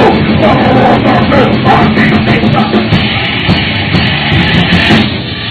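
Thrash metal band playing loud with distorted guitars, bass and drums, with shouted vocals over the first half; the song cuts off about five seconds in.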